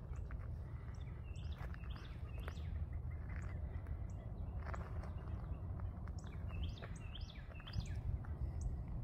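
Birds chirping in two short flurries of calls, one a second or two in and another around seven seconds in, over a steady low rumble.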